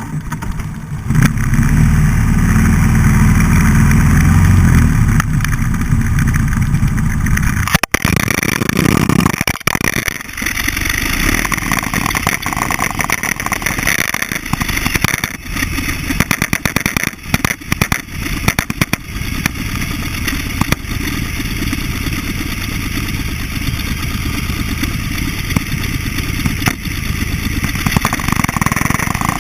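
Buell XB12SCG motorcycle's V-twin engine running loud. About eight seconds in, a sharp knock and a brief dropout as the GoPro comes off its mount; after that the sound turns to a rough rushing noise with many short knocks and rattles, the engine still underneath.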